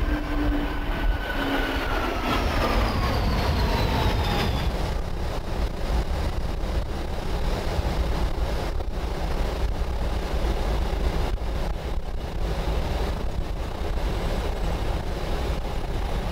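Steady rumble of airflow and engines heard on a Boeing 777-200's flight deck in flight. Over the first four seconds or so, a couple of thin whines fall in pitch and fade.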